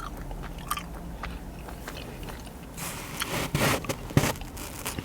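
A person chewing and biting into sushi close to the microphone: quiet small mouth clicks at first, then crunchy chewing that gets louder about three seconds in, with a few sharp clicks.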